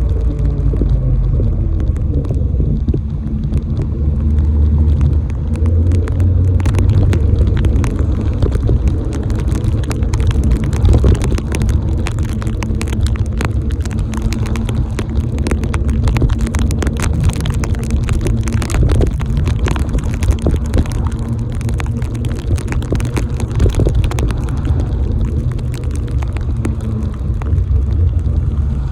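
Motor vehicle on the move in the rain: a heavy low rumble with a steady engine hum that drops in pitch in the first couple of seconds, and many sharp ticks scattered throughout.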